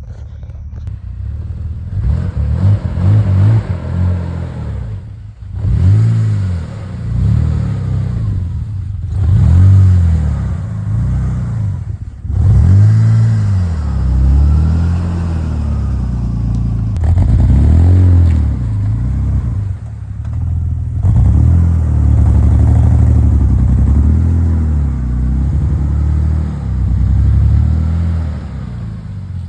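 BMW E39 engine with a cut exhaust, loud and raw, revving up and dropping back again and again. Its uneven note comes with a misfire, which the owner says makes it sound like a Subaru.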